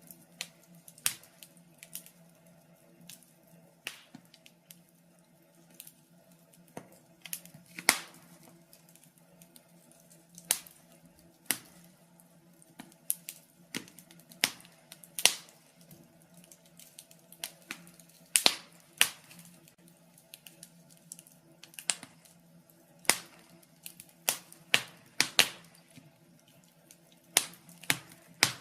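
Wood fire in a fireplace crackling, with sharp irregular pops about once a second, some much louder than others, over a steady low hum.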